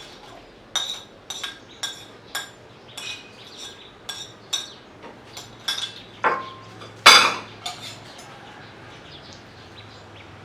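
A series of sharp clinks and knocks, like dishes or other hard objects tapping together: about a dozen strikes over some eight seconds, each ringing briefly, with the loudest about seven seconds in.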